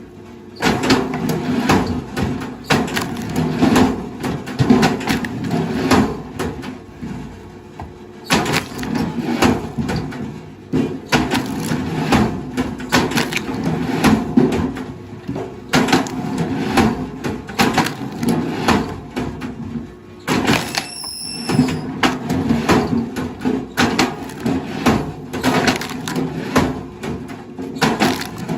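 Wood cracking, splintering and crunching in dense, irregular bursts, as when heavy machinery breaks up stumps or logs.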